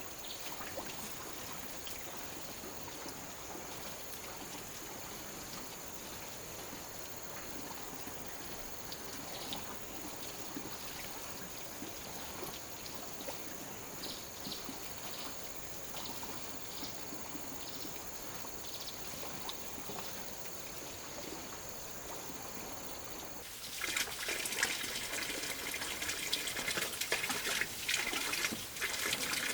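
Water trickling steadily, with a thin, steady high whine over it. About 24 s in, a louder crackling, splashing noise full of sharp clicks starts and continues.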